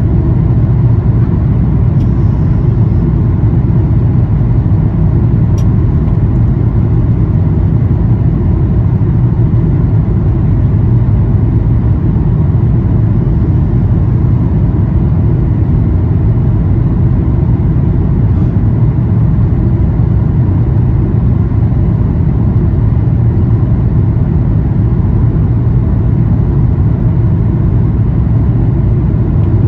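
Steady, loud cabin rumble of a Boeing 737-800, its CFM56-7B engines and airflow heard from inside the passenger cabin. The noise sits low and holds even throughout, with no rise or fall in pitch.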